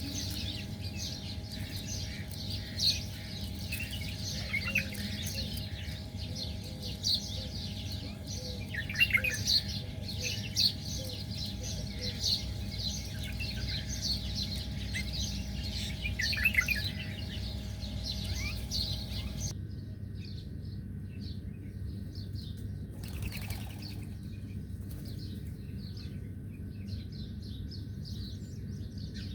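Small birds chirping in a rapid, dense chorus of short high calls over a steady low rumble. About two-thirds of the way through, the sound changes abruptly to sparser, fainter chirps.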